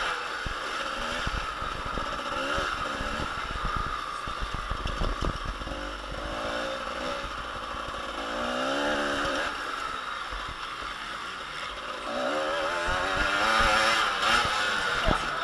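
Motocross dirt bikes' engines revving up and down as they ride around the track, the pitch rising and falling over and over, loudest near the end.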